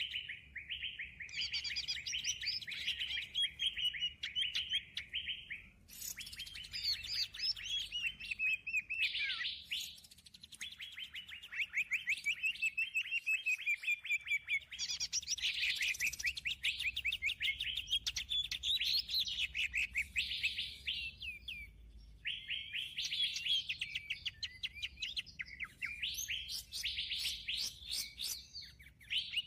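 Songbird chirping and trilling rapidly in dense, high phrases, broken by short pauses every few seconds.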